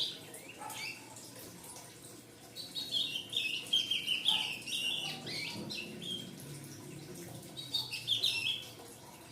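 Young ultramarine grosbeak (azulão) chirping: a run of rapid, high chirps about two and a half seconds in lasting some three seconds, and a shorter run near the end.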